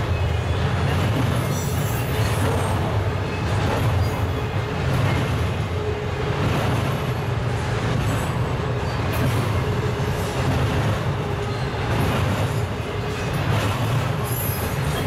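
Double-stack intermodal container freight train rolling past, a steady rumble of wheels on rail.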